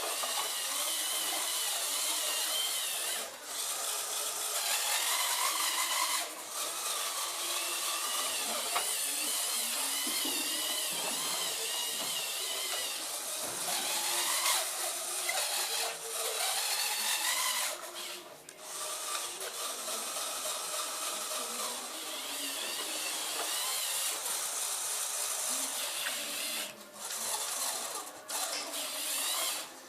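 A small electric motor whining. Its pitch wavers up and down as it speeds up and slows, with a few short pauses.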